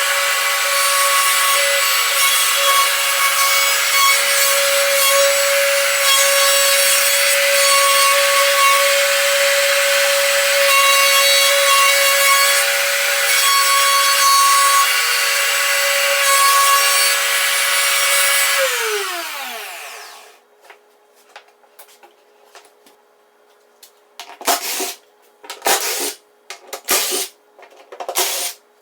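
Wood router cutting a circle in plywood on a pivoting circle-cutting jig: a steady high whine with cutting noise. About 19 seconds in it is switched off and its pitch falls as it spins down. Several short bursts of noise follow near the end.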